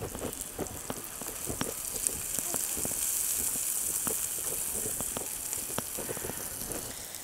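Diced green vegetable sizzling in oil in a nonstick frying pan and being stirred with a wooden spatula: a steady high hiss that swells a little midway, with scattered small ticks and light scrapes.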